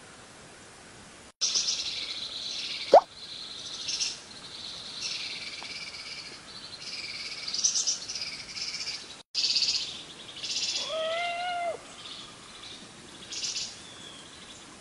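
Songbirds singing in high, rapid trills, starting about a second and a half in and going on in repeated phrases. A short, sharp pop, the loudest sound, comes about three seconds in, and near eleven seconds a one-second call rises and falls in pitch below the trills.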